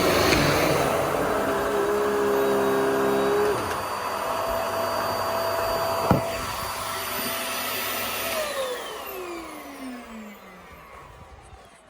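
Vax Airmax Stretch vacuum cleaner running at full suction, with one sharp click about six seconds in. It is then switched off, and its motor whines down in pitch as it spins to a stop.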